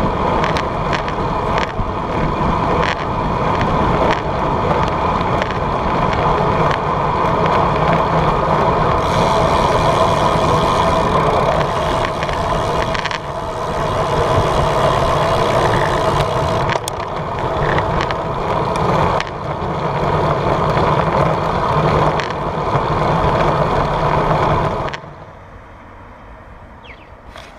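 A bicycle being ridden, heard on a GoPro: a steady rush of riding noise with rattles and clicks from the bike, which falls away sharply about 25 seconds in to a quieter hiss as the ride eases off.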